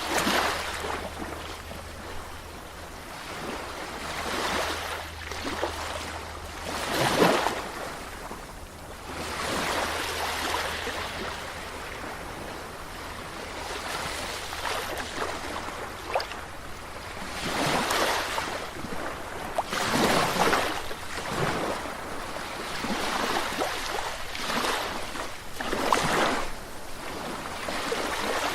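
Sea waves breaking and washing in, one surge after another, with several louder crashes among them.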